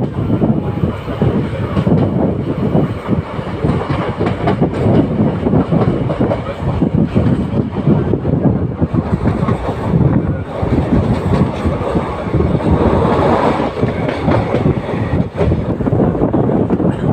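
Passenger express train running on the rails, heard from on board, with the steady rumble and clatter of the coach's wheels over the track.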